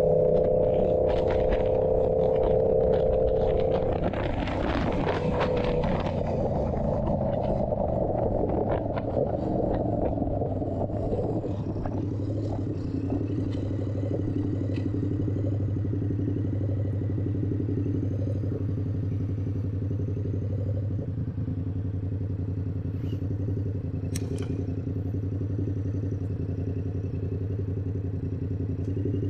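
Yamaha YZF-R7's parallel-twin engine through an SC-Project exhaust, running at a steady cruising note at first, then easing off as the bike slows. For the second half it settles into a lower, steady idle.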